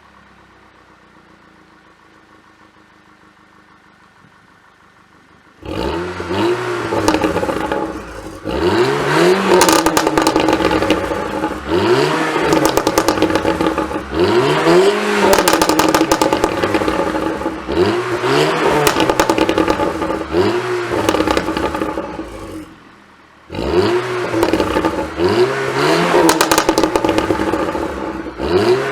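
VW Golf mk6 GTI's turbocharged 2.0-litre four-cylinder through a Remus backbox and sports cat, blipped again and again. Each rev rises and falls in pitch and ends in a string of crackles and pops on the overrun from a pops-and-bangs tune. The revving starts about six seconds in, after a quiet stretch, and drops briefly about three-quarters of the way through.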